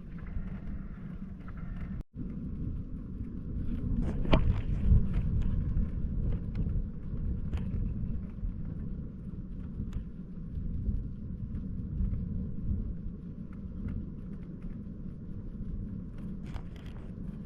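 Low, steady rumble of wind on the microphone and road noise while riding along a road, with a few faint clicks. The sound cuts out briefly about two seconds in.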